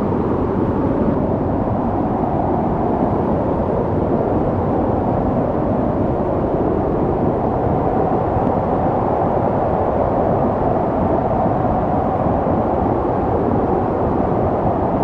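Snow storm wind blowing steadily: a dense, low rushing noise with no gusts breaking through and no separate sounds.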